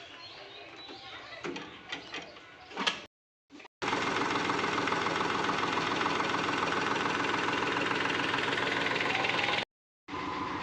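Eicher tractor's diesel engine running steadily and close by, loud with a fast even pulse. It starts about four seconds in, after a few seconds of quieter background with a few clicks, and breaks off abruptly for a moment near the end.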